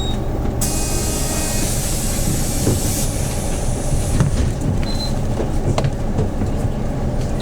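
Hyundai New Super Aero City CNG city bus engine running steadily, heard from inside the bus. About half a second in, a loud hiss of compressed air starts suddenly and lasts about two and a half seconds. A short high beep from the fare-card reader sounds about five seconds in.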